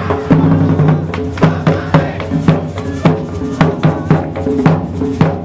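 Live traditional carnival parade music: hand drums striking a steady beat, about two to three hits a second, with shakers over a sustained low melodic line.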